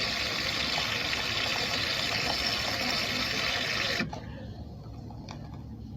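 De'Longhi Rivelia's automatic milk frother running, a steady steam hiss as it froths milk drawn from the carafe. It cuts off abruptly about four seconds in, as the frothing stage ends.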